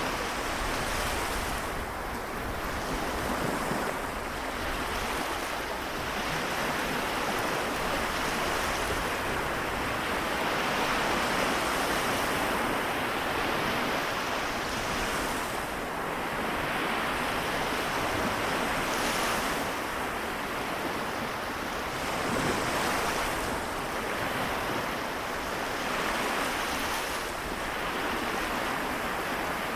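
Small waves of the Seto Inland Sea washing onto the shore, the surf rising and falling in swells every few seconds.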